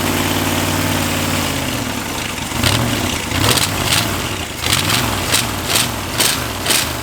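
A 283 small-block Chevy V8 running on only four cylinders, with one cylinder head fitted, the other bank dead. It holds a steady drone for the first second and a half or so, then settles into a lumpy, uneven idle that swells about twice a second.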